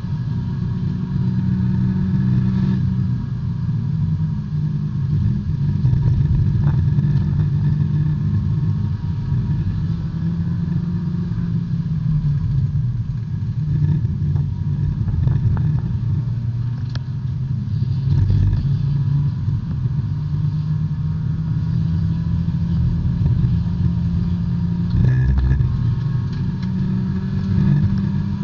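B-Spec subcompact race car's small four-cylinder engine running hard at racing speed, heard from inside the cabin. The engine note changes a few times as the driver shifts and lifts.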